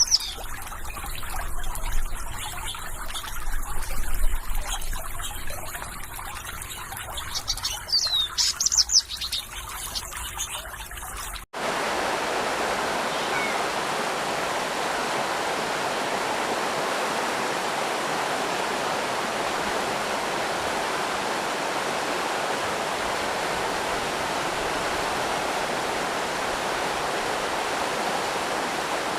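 Water trickling and splashing with birds chirping in short sweeping calls, then a sudden cut about eleven seconds in to a steady, even rush of fast-flowing water, like a waterfall or rapid stream.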